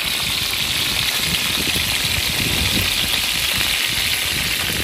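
Food sizzling as it fries in hot oil, a dense, steady hiss.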